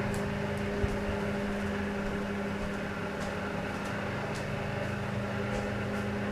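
A 1940 Emerson Jr. 12-inch table fan, model 2660-D, running with a steady motor hum and a few faint ticks.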